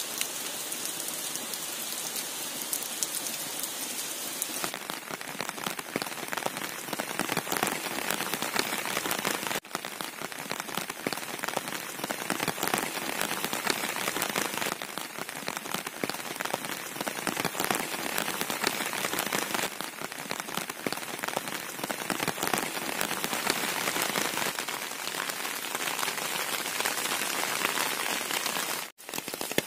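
Steady monsoon rain falling in a dense, continuous patter of drops. It cuts out for a split second about ten seconds in and again near the end.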